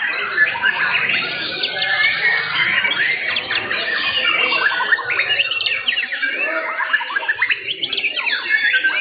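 Several white-rumped shamas (murai batu) singing at once, a dense, overlapping stream of rapid whistles and chirps.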